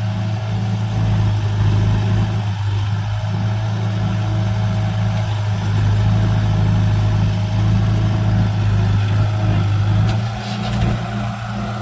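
Diesel tractor engine running steadily at constant speed, a loud, even low drone.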